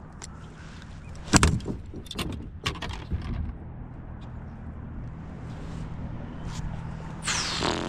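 A few sharp knocks and clatters, the loudest about a second and a half in, then a steady low motor drone, with a brief hissing sweep falling in pitch near the end.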